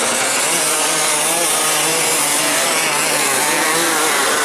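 Off-road dirt bike engines revving, their pitch wavering up and down with the throttle over a dense, steady noise.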